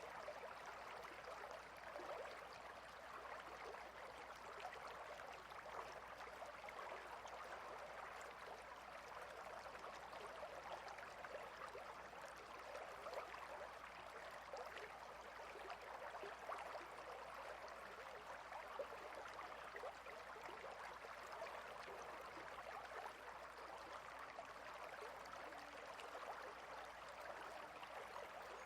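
A clear river running over and between rocks: a steady, faint wash of water with many small splashes.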